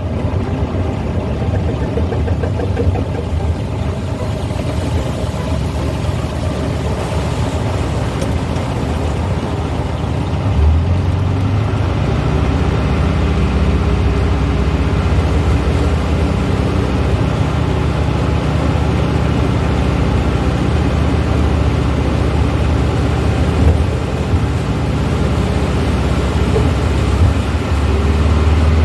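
Engine of a 1970s Volkswagen running as the car is driven, heard from inside the car. About ten seconds in, the engine note grows stronger and stays so.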